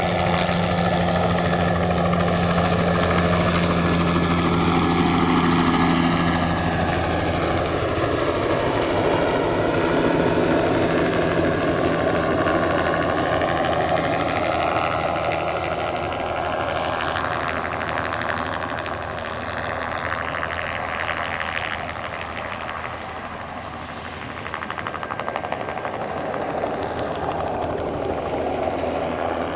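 Light single-turbine crop-spraying helicopter flying low, its rotor beat and engine whine steady at first. The pitch then slides down and up again as it passes and turns on its spraying run.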